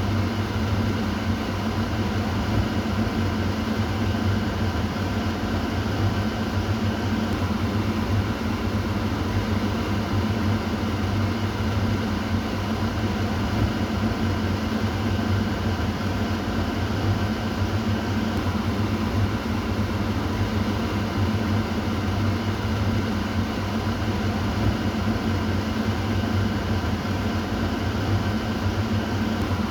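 Kitchen exhaust fan running steadily: an even rush of air over a low motor hum.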